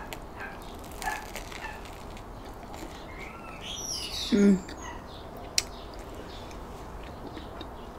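A person chewing a mouthful of crusty baguette sandwich, with faint crunching ticks. A bird chirps in quick rising and falling notes around the middle, a short low voiced sound comes right after it, and there is a single sharp click a little later.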